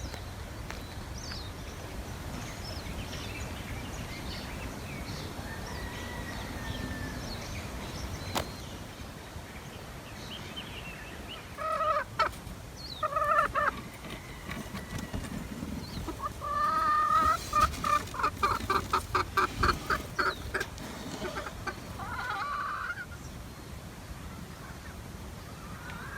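Birds calling: faint high chirps, then two short calls and a rapid run of pulsed calls lasting a few seconds, over a low steady rumble.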